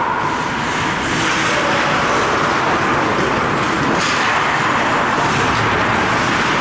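Ice hockey rink ambience during play: a steady wash of arena noise at a constant level, with no single sound standing out.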